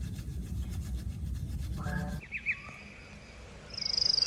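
Hand sanding with quick, even back-and-forth rasping strokes, which stop abruptly about halfway through. Short bird chirps follow, then a loud, high trilling bird call near the end.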